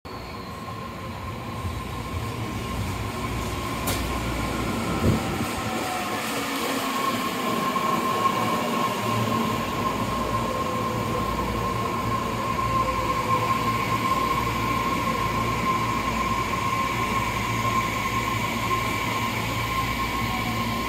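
Tobu Urban Park Line electric commuter train moving alongside the platform: a steady high whine over rumbling wheel and rail noise, growing louder over the first few seconds. A single sharp knock about five seconds in.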